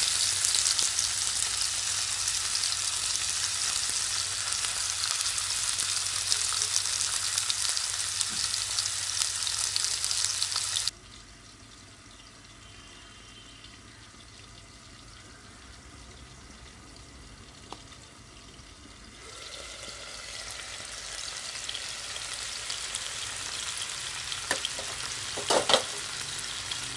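Chicken kebab pieces on bamboo skewers sizzling as they shallow-fry in hot oil in a non-stick pan. About eleven seconds in the sizzle drops suddenly to a much quieter level while the pan is covered with a glass lid, then grows louder again from about nineteen seconds in, with a few sharp clicks near the end.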